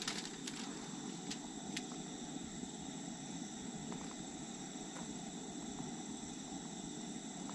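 Steady insect drone in the background, a thin high continuous tone, over a low steady rushing noise, with a few light clicks in the first two seconds.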